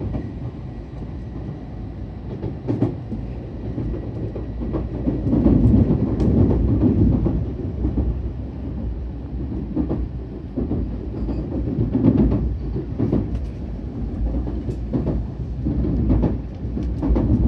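Japanese bullet train running on the rails: a steady low rumble with frequent clicks and knocks from the wheels, swelling louder about five seconds in and again around twelve seconds.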